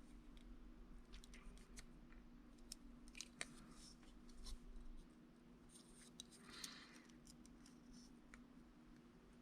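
Faint small clicks and ticks of small plastic drone parts being handled and fitted by hand, scattered through the first half, with a brief soft rustle later, over a quiet steady hum.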